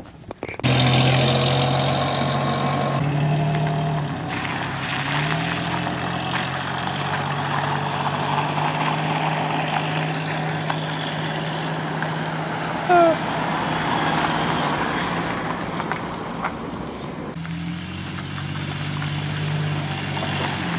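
Car engine running steadily, its pitch shifting a few times as it changes speed. A brief falling whistle-like tone about 13 seconds in.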